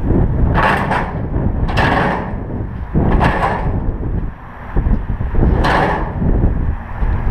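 Wind buffeting the microphone as a heavy low rumble, with four short hissing bursts.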